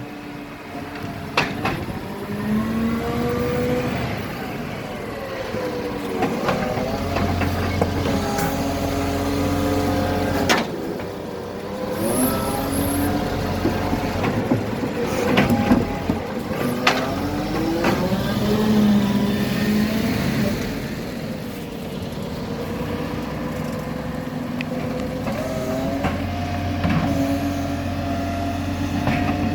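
Garbage truck engine revving up and falling back several times, with scattered clicks and a brief hiss of air about twelve seconds in.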